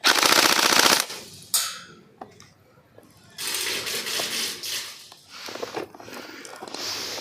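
Airsoft electric rifle firing a full-auto burst of about a second, a fast rattle of shots that stops sharply, followed by a single sharp crack and a quieter stretch of noise a few seconds later.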